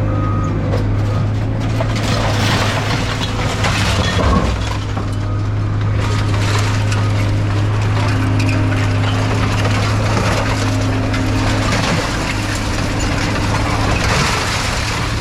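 Truck engine running steadily, with scrap metal clattering and rattling as a load is dumped.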